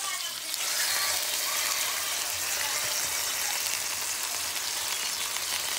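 Marinated beef slices and red onion frying in a hot pan, a steady sizzling hiss that gets louder about half a second in.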